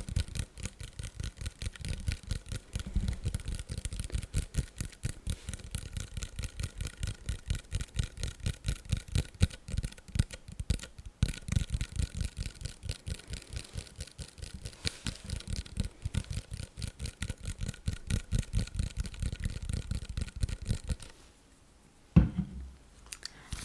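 Fast ASMR tapping and scratching on a bottle of micellar water: a rapid, continuous patter of many taps a second. It stops near the end, and one louder knock follows.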